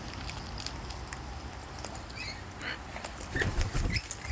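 Rain pattering steadily, with scattered short, high chirps from lorikeets feeding and a few faint clicks.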